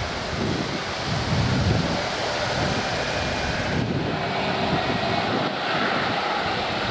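Boeing 737-800's CFM56-7B turbofan engines heard as a steady, rushing jet noise with low rumble, mixed with wind buffeting the microphone.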